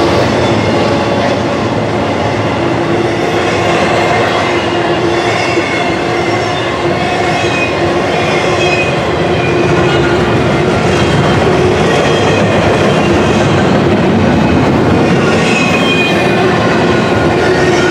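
Intermodal freight train's container well cars rolling past close by: a loud, steady rumble of steel wheels on the rails, with thin squealing tones running through it.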